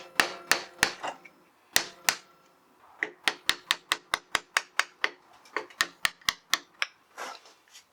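Sharp metallic knocks and taps of hand tools on a 50cc motorcycle's clutch assembly as it is worked loose, with a faint metallic ring. A few irregular strikes come first, then a steady run of about five a second.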